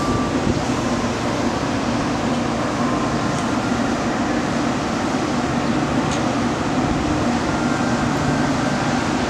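Steady mechanical hum of electric trains standing at the platforms, their air-conditioning and auxiliary equipment running.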